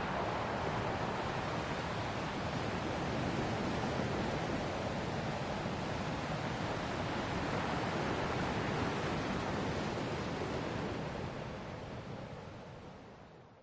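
Ocean waves washing steadily on the shore, a continuous surf hiss with slow swells, fading out over the last few seconds.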